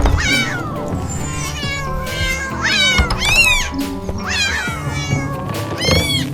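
A domestic cat meowing repeatedly, several separate rising-and-falling meows, over background music.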